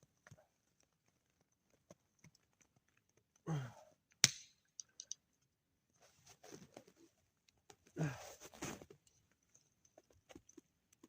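Scattered small clicks, two short voiced sighs or grunts falling in pitch, and a single sharp crack about four seconds in.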